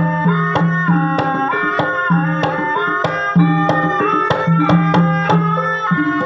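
Javanese gamelan music accompanying an ebeg dance: regular kendang drum strokes roughly every half second over a stepped melody on struck tuned instruments and a low held tone.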